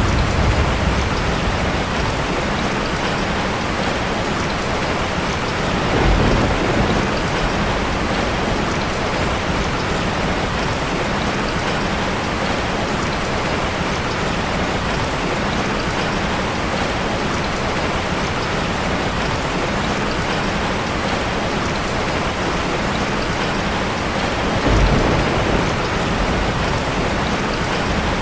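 Heavy rain falling steadily in a dense, even hiss. Two brief low rumbles, like distant thunder, swell up about six seconds in and again near the end.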